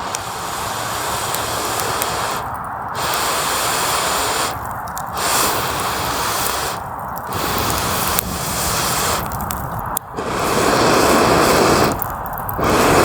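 Someone blowing air onto a campfire in about five long puffs, each a rushing hiss of a second and a half to two seconds with a short pause for breath between; the longest and loudest comes near the end.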